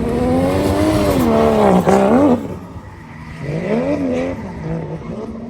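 Drift car's engine revving hard, its pitch dipping and climbing with tyre squeal, then dropping away sharply about two seconds in; a second, quieter rev rises and falls near the middle.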